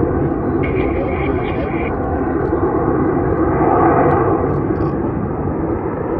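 Jet engine noise from the Snowbirds' CT-114 Tutor jets flying by, a steady rushing sound that swells about four seconds in and eases off after.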